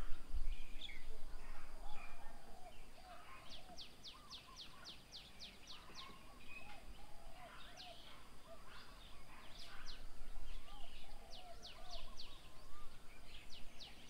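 Wild birds calling: several runs of quick, high, falling whistled notes, about five a second, over scattered lower warbling notes. A brief low rumble comes at the start.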